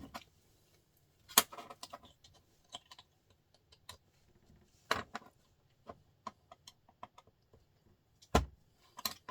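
Scattered metallic clicks and knocks of hand tools working on a small printer motor being taken apart for its copper, with a few sharper clicks and a heavier thud near the end.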